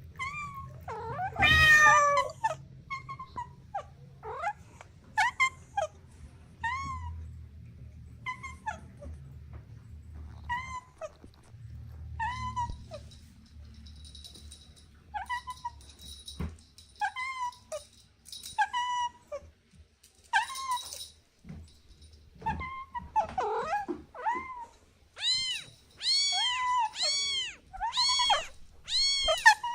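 Kitten mewing repeatedly in short, high calls about once a second, with one longer, louder call about a second and a half in. In the last few seconds the calls come faster, several a second.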